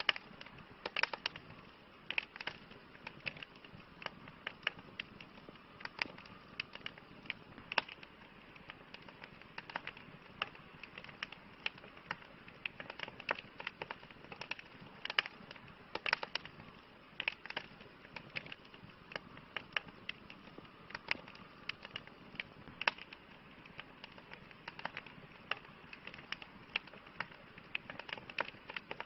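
Campfire burning wood, crackling with irregular sharp pops, several a second, over a soft steady hiss.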